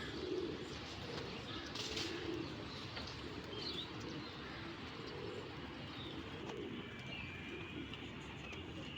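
Domestic pigeons cooing over and over, with a few short high chirps from small birds.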